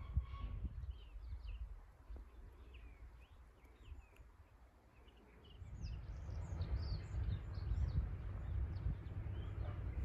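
Small birds chirping and twittering, many short high calls in quick succession. Underneath is a low wind rumble on the microphone that fades out for a few seconds in the middle and comes back about halfway through.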